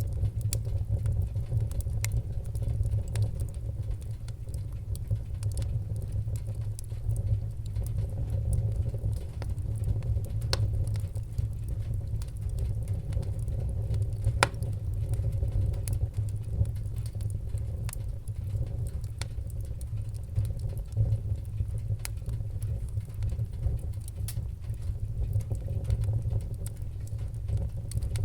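Wood fire crackling in a fireplace: scattered small pops and snaps over a steady low rumble, with one sharper pop about halfway through.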